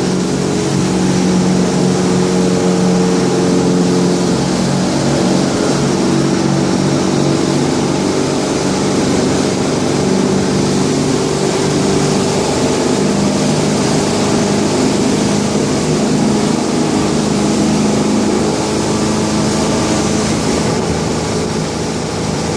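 Motorboat engine running steadily under way over a constant hiss, its pitch shifting slightly a few times.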